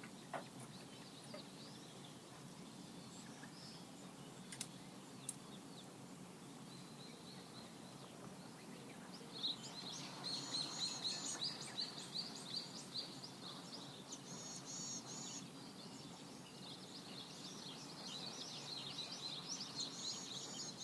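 Outdoor ambience: small birds chirping and twittering in quick high runs over a steady low background hum, the birdsong filling in about halfway through and again near the end. A few sharp ticks sound in the first few seconds.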